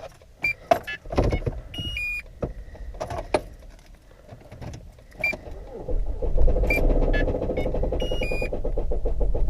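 A 2007 Hyundai Sonata's engine being cranked by the starter from about six seconds in, turning over with a fast, even churn but not catching: the engine is dead. Before that come clicks and short electronic chimes from the car as the key is worked.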